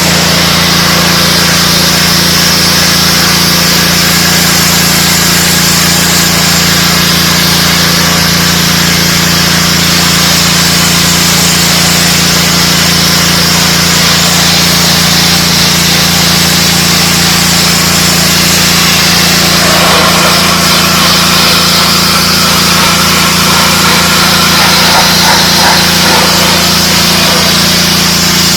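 DeWalt 3600 psi gas pressure washer running steadily, its engine tone held under the loud hiss of the high-pressure water jet spraying on concrete. The spray sound changes about two-thirds of the way through.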